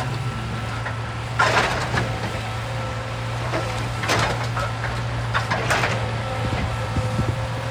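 Excavator engine running steadily, with irregular crunching and scraping bursts as rock is broken and dug. The loudest burst comes about a second and a half in, with others around four and six seconds.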